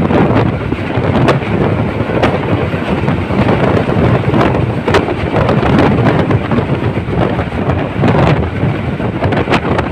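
A moving train heard from on board: a loud, steady rumble and rattle with wind buffeting the microphone, broken by scattered sharp knocks.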